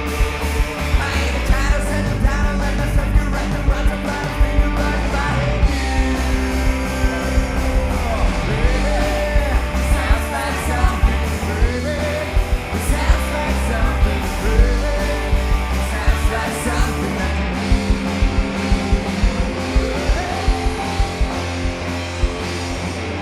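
Live rock band playing a loud song with drums, electric guitars and bass under a sung lead vocal, with a steady driving beat.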